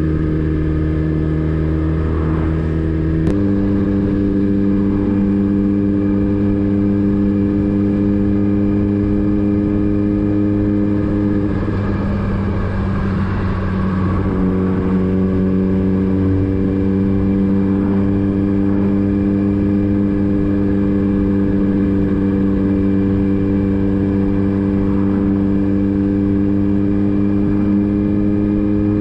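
Motorcycle engine running steadily under way. Its pitch steps up about three seconds in, there is a rougher, noisier stretch of a few seconds in the middle, and then it settles back to a steady note.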